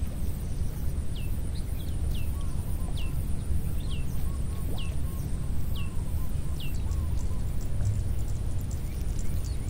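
A bird calling with short, high, falling chirps about once a second, stopping about seven seconds in, over a low steady rumble.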